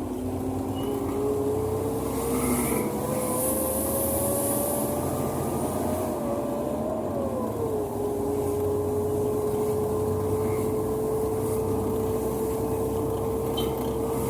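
A motor running with a steady hum over a noisy rush. The hum slowly rises in pitch, drops about eight seconds in, then holds level.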